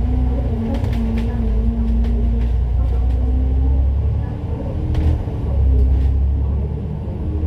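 A city bus's engine and drivetrain running under way, with a deep rumble and a whining tone that steps up and down in pitch. It eases off about halfway through, then pulls again.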